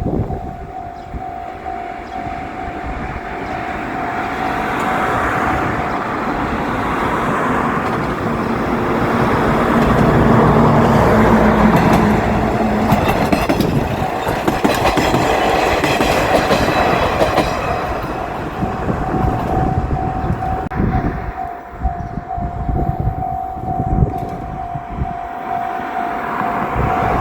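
Japanese level-crossing warning bell ringing steadily while a JR Shikoku 185-series diesel railcar train passes. The train's rumble builds to its loudest about halfway through, followed by several seconds of rapid wheel clicks over the rail joints, then it fades away with the bell still ringing.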